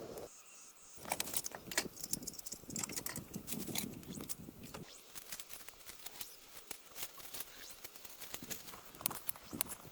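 Irregular small clicks and taps, with a denser stretch of rustling between about one and four seconds in.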